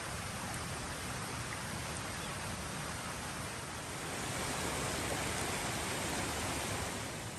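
Steady rushing of a forest creek, swelling a little about four seconds in.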